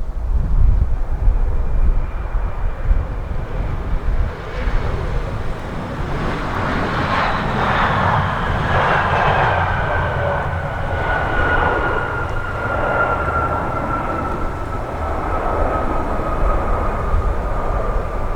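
Airliner passing on its landing approach. Its engine noise swells about four seconds in, and a steady engine whine falls slowly in pitch as it goes by, over a low gusty wind rumble.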